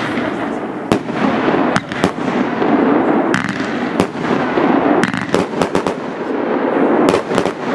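Aerial fireworks shells bursting in a string of sharp bangs over a continuous dense rush of noise. Single bangs come in the first half, a quick cluster about five seconds in, and three more near the end.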